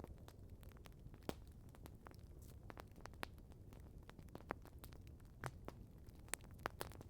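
Campfire crackling: irregular sharp pops and snaps from burning wood, a handful louder than the rest, over a steady low background rumble.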